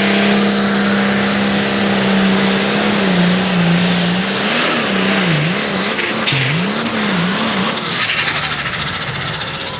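Turbocharged diesel engine of an International light limited super stock pulling tractor at full throttle, with a high turbo whine over the engine note. About three seconds in, the engine pitch starts swinging up and down repeatedly as the tractor gets out of shape on the track, and the sound eases off near the end.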